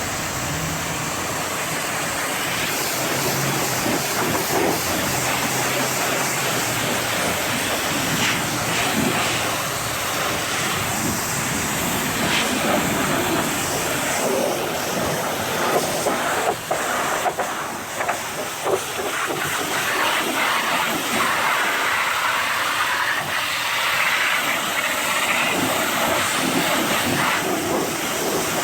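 Pressure washer spraying a high-pressure jet of water against a truck's body, rinsing off the foam; the level wavers as the spray moves over the panels.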